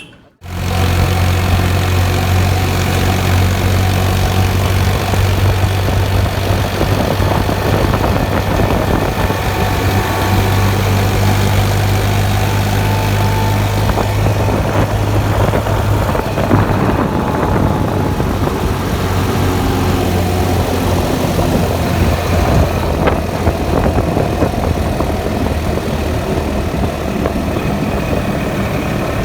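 Tractor's diesel engine running steadily with a loud low drone; the deepest part of the hum eases off about halfway through.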